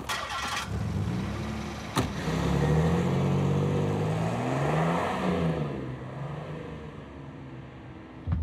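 A large sedan's engine accelerating away: the revs rise and fall, then the sound fades as the car drives off. A sharp click sounds about two seconds in.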